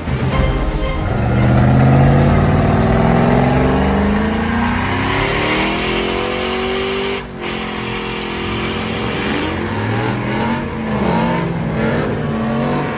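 Truck engine revving hard, its pitch climbing for several seconds, cutting out briefly about seven seconds in, then rising and falling again.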